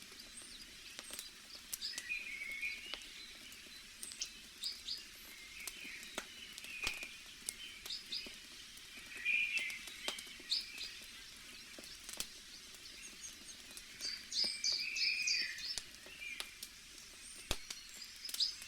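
Campfire crackling, with sharp irregular pops and snaps over a soft hiss, while small forest birds chirp and trill, most busily about halfway through and again near the end.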